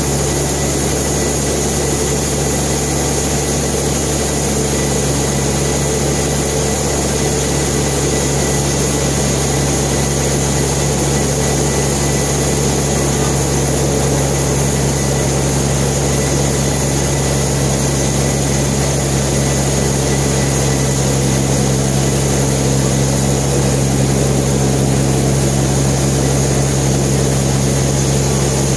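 Sawmill machinery running steadily: a constant engine-driven drone with a strong low hum, unchanged throughout.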